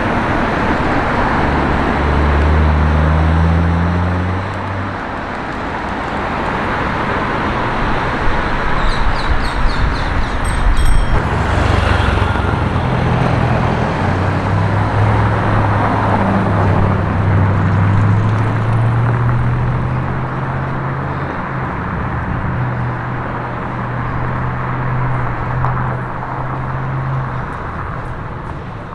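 Road traffic on a city street: vehicles going by with a steady rush of engine and tyre noise. One engine rises slowly in pitch for over ten seconds as it pulls away. A few short high squeaks come near the middle.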